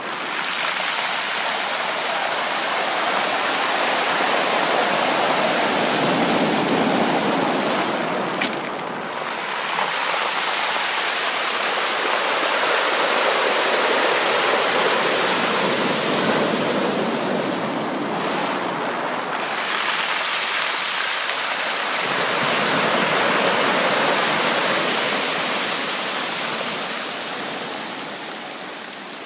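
Sea waves washing onto a beach: a steady rush of surf that swells and ebbs every several seconds, fading toward the end.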